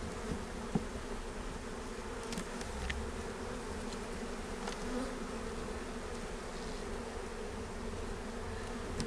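Honeybee colony buzzing steadily in an opened hive, with a few faint knocks.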